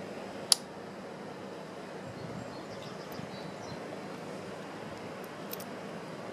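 Small carburetor parts being handled during assembly: one sharp metallic click about half a second in, then a few faint ticks near the end, over a steady background hiss.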